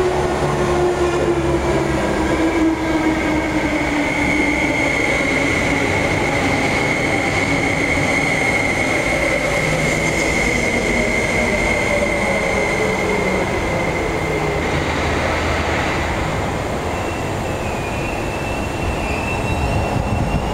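MTR SP1950 electric multiple unit braking into the platform: the traction motor whine falls slowly in pitch as the train slows, over steady running rumble. A high steady squeal rides over it from a few seconds in until about three-quarters through, and a slightly higher tone sounds near the end.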